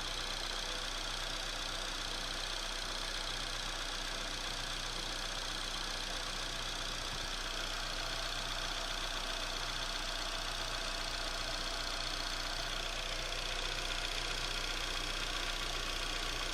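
Chevrolet Astra 2.0 engine idling steadily, still cold, making the strange noise that its owner hears after a cold start.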